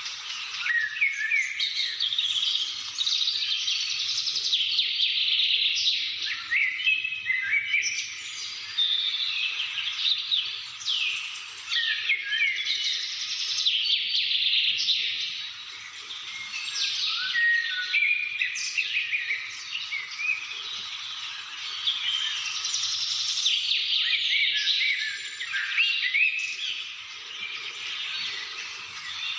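Many small birds chirping and singing at once in a dense, overlapping chorus of rapid twitters and short sweeping notes that swell and ebb.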